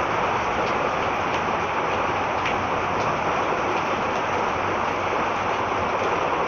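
Heavy rain falling steadily: a dense, even hiss with scattered ticks of drops striking close by.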